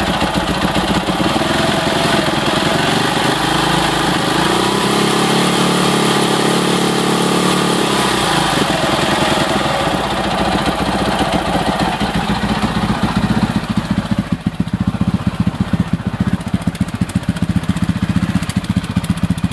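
2006 Husaberg FE650's single-cylinder four-stroke engine running with a mechanical racket of knocking and ticking that persists despite a new cam chain, tensioner and valve springs. It is held at raised revs for a few seconds, then drops back to idle with evenly spaced firing pulses.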